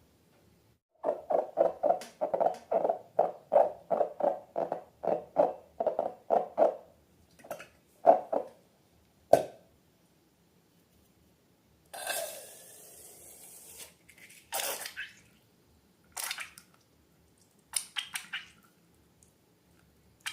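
Hands working slime and balloons: a quick run of squishy handling strokes, about three a second, then a few single ones, a hiss lasting about two seconds midway, and some crackles near the end.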